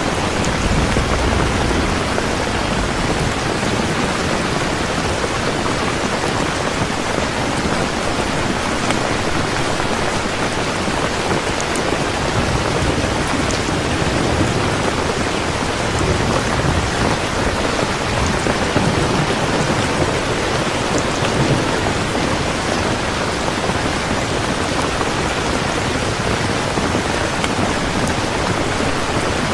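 Heavy rain falling steadily, with low rumbles of thunder near the start and again midway.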